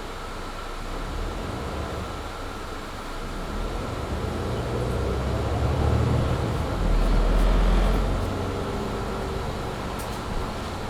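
Mercedes-Benz Citaro C2 G articulated bus heard from inside, its engine pulling hard under kickdown through the Voith automatic gearbox. The engine gets louder from about a second in, dips briefly around seven seconds as if changing gear, then peaks again before easing off. A steady hum from the cabin heater runs under it.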